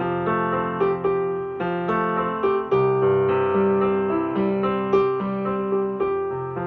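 Instrumental piano or electric piano interlude: melody notes over sustained chords, each note struck and fading.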